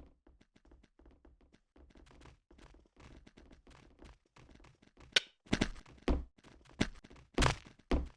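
Faint clicks and handling noises, then from about five seconds in a run of sharp thumps and knocks, roughly two a second.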